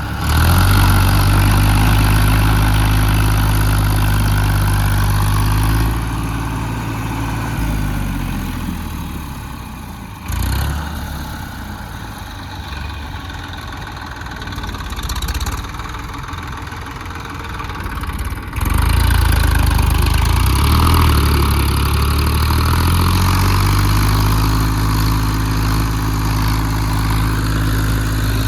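Massey Ferguson tractor's diesel engine running hard at a steady pitch. It drops much quieter for several seconds in the middle, then comes back loud for the last stretch.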